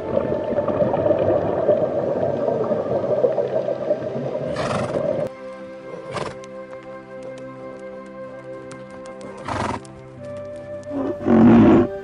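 Horse whinnying in short calls over background music with held notes: about five seconds in, again near ten seconds, and loudest just before the end. A dense, rough noise lies under the music for the first five seconds.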